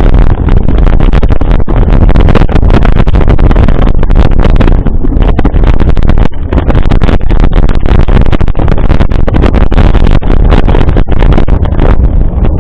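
Loud wind rumble and buffeting on the microphone of a camera carried on a moving bicycle, heaviest in the low end, with rattling and brief dropouts throughout.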